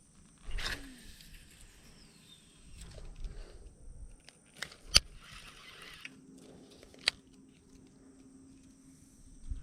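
A few sharp clicks and some rustling from fishing tackle being handled during casting and retrieving, the loudest click about five seconds in, over a faint steady high hum.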